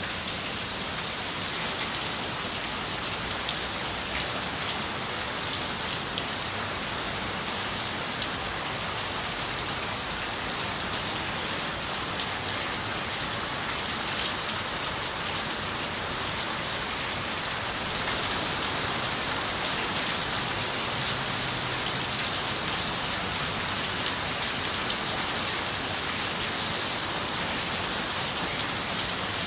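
Steady rain on a window, a dense hiss sprinkled with sharp ticks of single drops. It grows slightly louder a little past halfway through.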